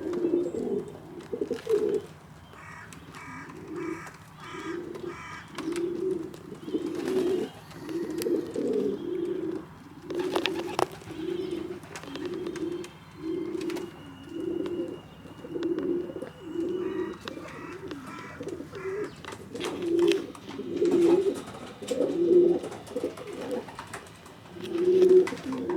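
Domestic pigeons cooing, a steady run of low coos about one a second, with short spells of higher chirping notes now and then.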